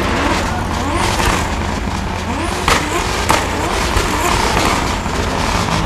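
Drift car engine revving up and down hard, with tyre and exhaust noise, and two sharp cracks close together around the middle.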